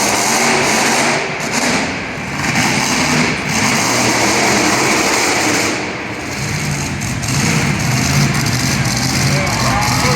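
Monster truck engine running hard during a freestyle run, the revs easing off briefly twice before coming back up.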